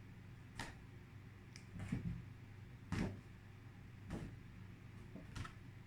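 Flashcards being handled: five soft taps and knocks about a second apart as cards are flipped or set down, over a faint room hum.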